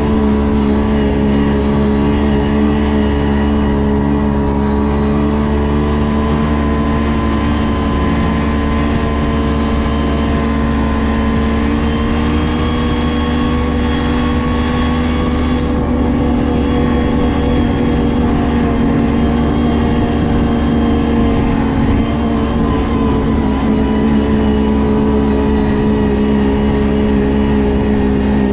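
Ski-Doo GSX 600 HO snowmobile's two-stroke twin engine running at a fairly steady speed while riding, with only small rises and falls in pitch.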